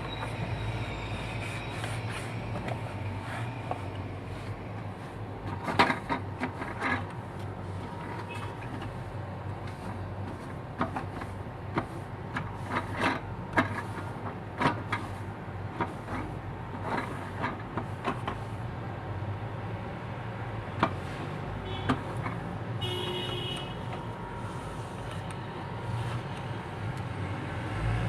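Scattered clicks and knocks over a steady low hum, with a brief high pitched tone near the end.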